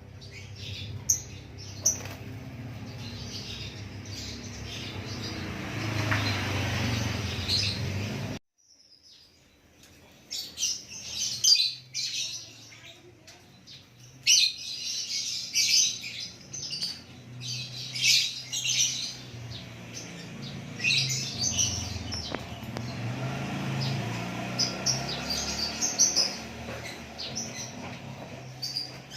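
White-rumped shama (murai batu) singing in short, bright, varied phrases over a steady low hum. The sound cuts out suddenly about eight seconds in, then the song comes back in loud bursts.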